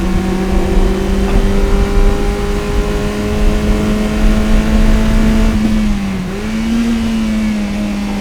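Toyota MR-S's 1ZZ 1.8-litre four-cylinder engine pulling under load through an aftermarket header and Fujitsubo exhaust, its note climbing slowly for about five seconds. The revs dip briefly about six seconds in, then pick back up and hold.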